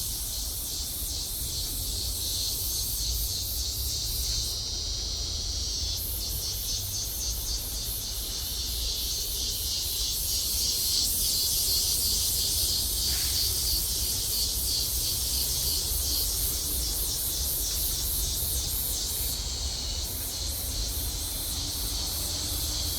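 A loud chorus of tropical forest insects, a dense, high, rapidly pulsing drone that carries on without a break. A low rumble sits underneath it.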